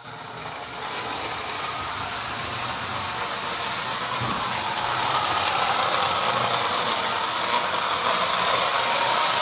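Toy train running on its track layout: the Marx 1666 locomotive's electric motor and wheels make a steady whirring rattle that starts up and grows louder over the first few seconds, then holds.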